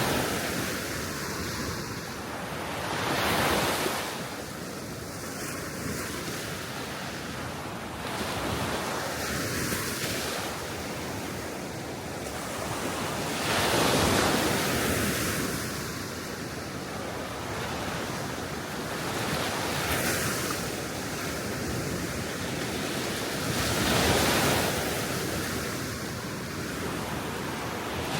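Small waves breaking and washing up on a Baltic Sea shore, each wash swelling and fading over a few seconds, with steady wind over the water.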